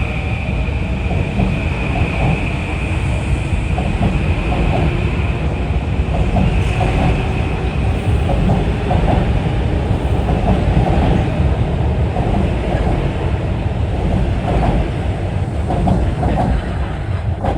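Metro-North commuter train rolling along the platform, with steady wheel and rail noise and the clickety-clack of wheels over rail joints. A high steady whine fades out over the first couple of seconds.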